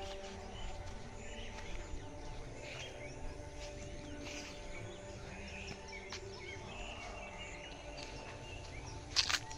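Outdoor garden ambience with small birds chirping and calling on and off over a low steady rumble. A short, loud burst of noise comes near the end.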